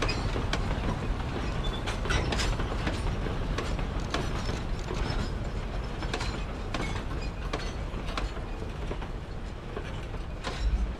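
Narrow-gauge train rolling slowly past, its coal hopper cars and then passenger coaches clicking and clanking over the rail joints above a steady low rumble. The sound eases slightly toward the end.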